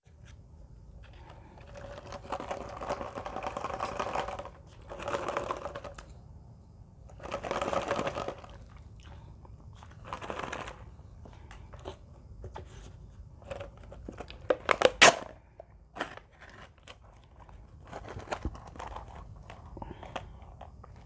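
Plastic wrapper of a Mini Oreo snack pack crinkling and tearing as it is opened, in irregular rustling spells with a few sharp crackles about three-quarters through.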